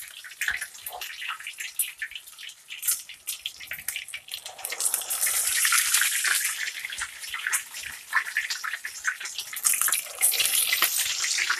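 Grated-potato patties with meat filling sizzling and crackling in hot vegetable oil in a frying pan. The sizzle swells each time another patty is laid into the pan, about five seconds in and again near the end.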